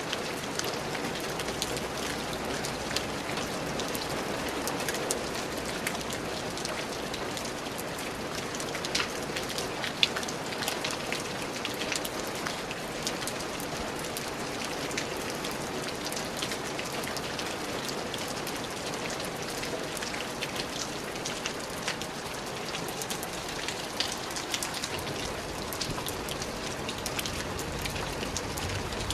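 Steady rain falling on a surface, a constant hiss with many individual drops tapping through it.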